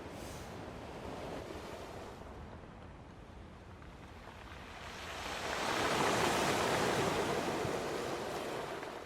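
Sea waves breaking and washing up the beach on an incoming tide. One wave surges in just past halfway and washes on until near the end.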